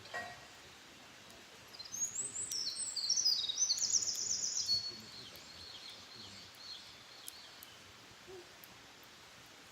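A wild songbird sings one phrase of rapid, high trilled notes that step down in pitch, lasting about three seconds and starting a couple of seconds in, with fainter calls after it. A short knock sounds at the very start.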